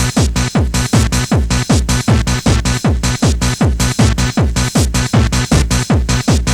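Fast Scottish hardcore dance music. A kick drum hits on every beat, each kick dropping in pitch, over a stepping low synth line.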